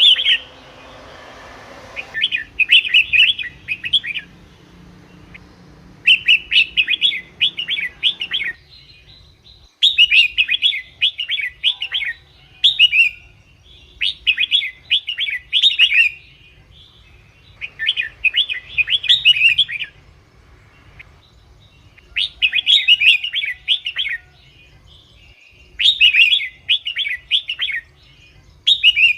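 Red-whiskered bulbul singing: bursts of quick, bubbling chirps about two seconds long, repeated after short pauses, about seven phrases in all.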